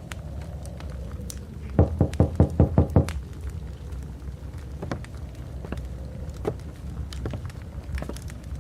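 Knocking on a door: a quick run of about seven knocks, with a steady low rumble of blizzard wind behind it.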